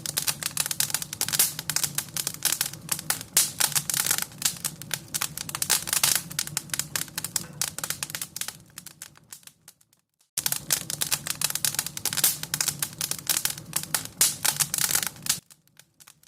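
Wood fire crackling with dense, rapid pops and snaps over a low hum; it fades out about ten seconds in, starts again abruptly a moment later, and cuts off near the end.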